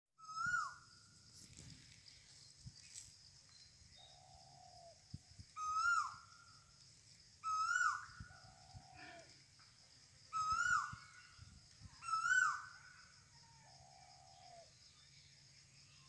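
A bird calling outdoors: five loud, short calls that each start high and drop sharply in pitch, with a quieter, lower, longer call three times in between. A steady high-pitched drone runs underneath.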